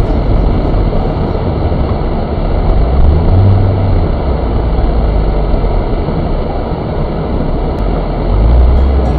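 Cabin noise of a MINI driving on a snowy road: steady engine and tyre rumble with a rushing road noise. The low engine note swells briefly about three seconds in and again near the end.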